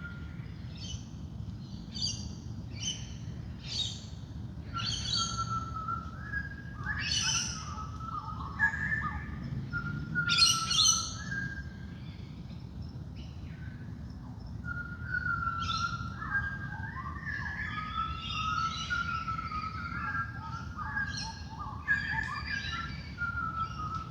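Dawn chorus of wild birds: many birds calling at once, with short high chirps and repeated whistled phrases overlapping throughout, the busiest burst about ten seconds in.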